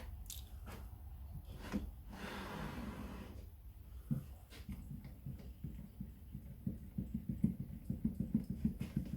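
Light clicks and knocks of metal parts being handled at a lathe, over a steady low hum. A short rustle comes about two seconds in, and from about four seconds on the clicks turn into a fast, irregular ticking that grows denser toward the end.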